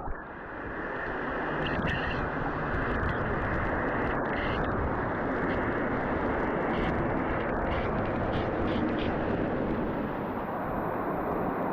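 Steady roar of rushing water, like a waterfall, heard as an even rumbling noise with a few faint clicks above it.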